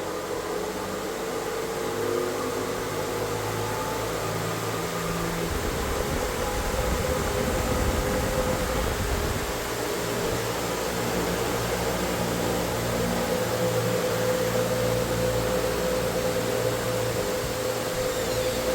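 Household electric fan running steadily: an even rush of moving air with a steady motor hum and a clear tone in it.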